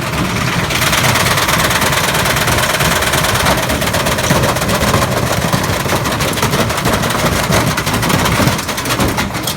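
Washing machine drum spinning with a brick inside, the brick hammering against the drum in rapid, continuous loud banging.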